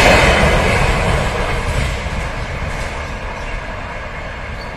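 Passenger train coaches rolling away on the rails, a rumble of wheels and running gear that fades steadily as the train recedes.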